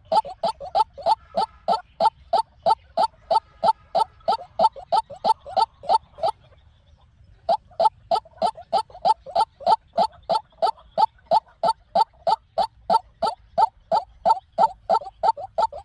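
White-breasted waterhen calling, a rapid run of short rising notes at about five a second that breaks off about six seconds in, then starts again a second later.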